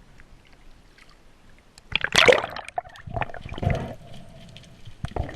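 Water splashing and sloshing: quiet at first, then a loud splash about two seconds in, followed by several smaller sloshes.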